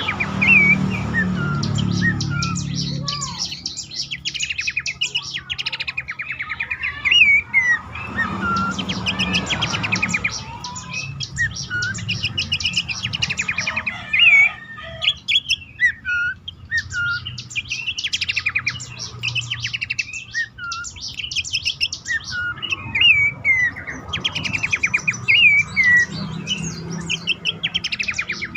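Pelanduk semak (Horsfield's babbler) calling: fast chattering trills mixed with short, sharply rising and falling whistled notes, repeated in phrases.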